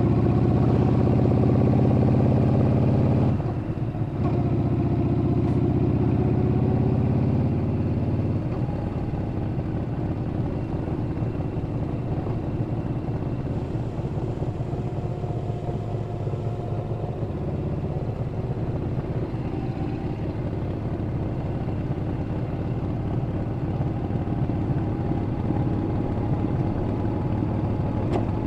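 Yamaha Bolt's air-cooled V-twin engine pulling strongly under throttle, with a short dip in the note about three and a half seconds in. After about eight seconds it eases off into a lighter, quieter run.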